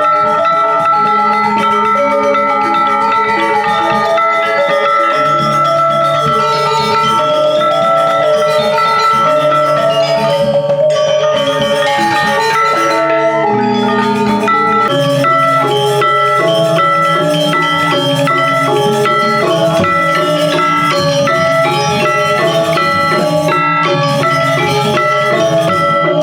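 Balinese gamelan: metal-keyed mallet instruments playing fast repeated, interlocking note patterns.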